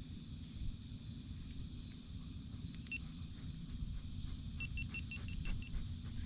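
Field insects droning steadily in a high, even hum, with faint regular double ticks above it and a low rumble underneath. Near the end comes a quick run of about six short, evenly spaced high notes.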